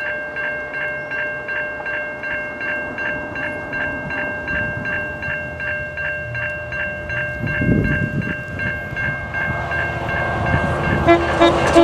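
Level-crossing warning bell ringing in steady rapid strikes, about three a second, while an approaching train's rumble builds and grows louder near the end.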